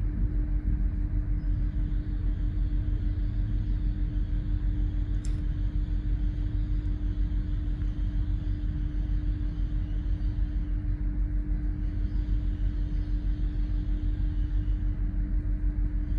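Train running steadily: a continuous low rumble with a constant hum.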